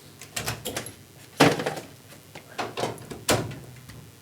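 A series of knocks and clatters of hard objects being handled and set down on a workbench, the loudest about a second and a half in and another sharp knock a little after three seconds.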